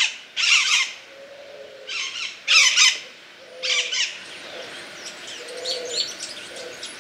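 Birds calling and singing in the trees: several loud short bursts of fast chirping in the first four seconds, then fainter high chirps, with a few soft low calls underneath.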